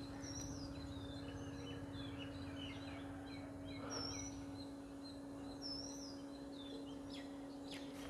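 Several birds chirping and whistling in short, high calls scattered throughout, over a steady low hum.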